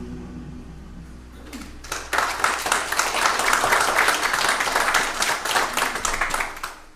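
The last notes of a song fade out. About two seconds in, a congregation begins applauding and keeps clapping for about five seconds, stopping just before the end.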